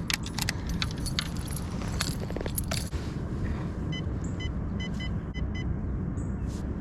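Metallic jangling and clicking of fishing tackle being handled in a kayak for the first few seconds, over a steady low rumble. About four seconds in, a run of short, evenly spaced high ticks follows.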